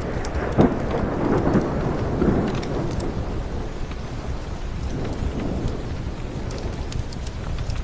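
Steady rain with a rolling rumble of thunder that is strongest over the first few seconds and then dies away. Scattered sharp ticks sound over the rain.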